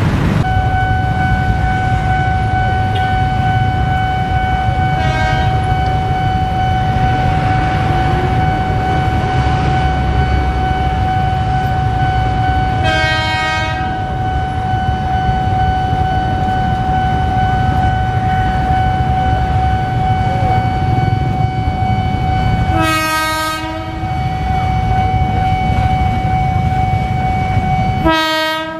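A JR 205 series electric commuter train passes over a continuous low rumble. Its horn sounds four short blasts, the last two loudest, while a steady high warning tone holds throughout.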